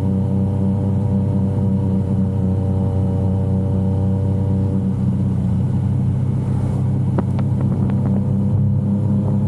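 Yamaha XSR900's inline three-cylinder engine running at a steady, even speed while riding, with a few short ticks about seven to eight seconds in.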